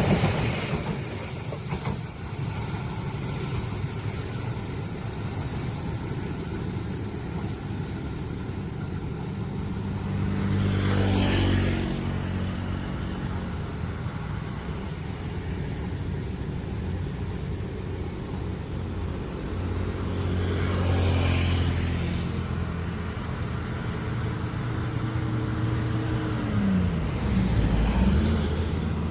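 Road traffic: motor vehicles passing one after another, with louder pass-bys about 11 and 21 seconds in and an engine note that dips and climbs again near the end.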